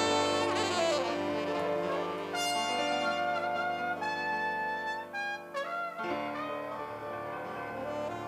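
Live band playing the instrumental introduction of a song: held chords over a bass line, with a quick downward run about five and a half seconds in, after which the music thins out and gets quieter.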